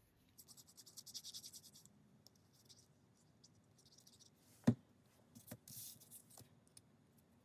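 Paper being handled and rubbed by hand, a quick run of light scratchy strokes, then a single sharp tap on the work table a little past the middle, followed by another brief scratch of paper.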